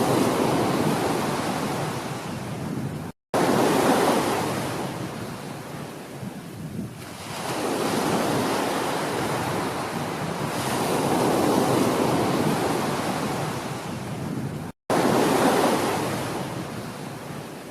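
Ocean surf: waves breaking and washing back in repeated swells every three to four seconds. The sound drops out to silence twice, for a split second each time.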